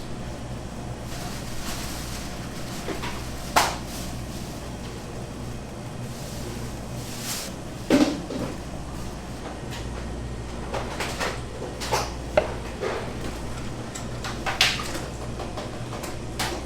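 Scattered knocks and clatters of kitchen utensils and equipment being handled over a steady low machine hum in a bakery kitchen.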